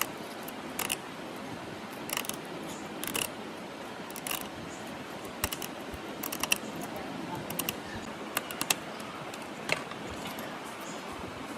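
Scattered sharp clicks and light taps, a dozen or more at uneven spacing, of small parts and tools being handled, over a steady background hiss.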